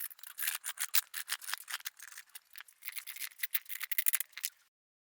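A fishing rod blank being cut by hand with quick, rapid rasping strokes, several a second, which stop abruptly near the end.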